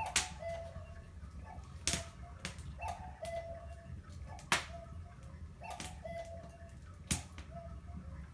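Wood fire in a fireplace crackling, with sharp pops every second or two over a low steady rumble. Short, low whistling tones sound between the pops.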